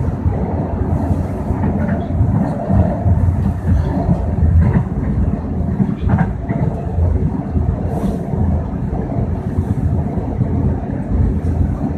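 CTrain light-rail train running along the track: a steady low rumble with a few faint clicks of the wheels over the rails.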